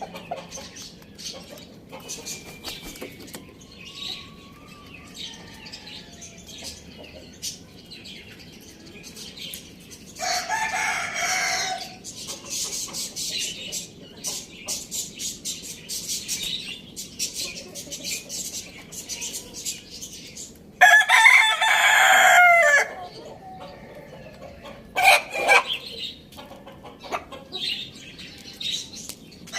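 A rooster crowing twice, each crow about two seconds long, the first about ten seconds in and the louder second just past twenty seconds, with clucking and short chirps from other birds between.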